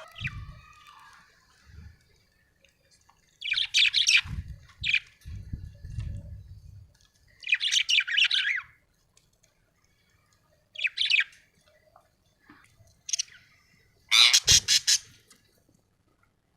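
Budgerigar giving short bursts of harsh chirps and squawks, about six bursts with pauses between them, the last one near the end the loudest. Low thumps sound under some of the calls.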